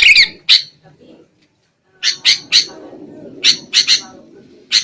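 Sooty-headed bulbul (kutilang) giving its noisy, agitated 'ribut' chatter: short harsh calls in quick groups of two or three, with a pause of about a second near the start. This is the excited calling used as a lure to draw in wild bulbuls.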